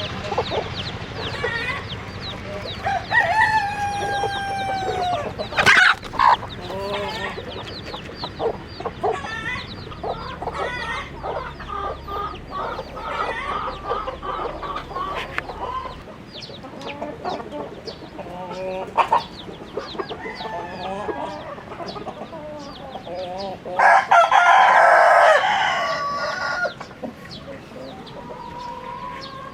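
A flock of chickens clucking and calling, with a rooster crowing loudly for about two seconds near the end. There is a sharp knock about six seconds in.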